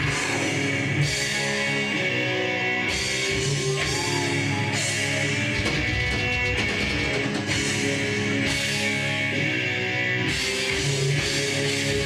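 A heavy metal band playing live: electric guitars over a drum kit, the cymbals coming in and out every couple of seconds.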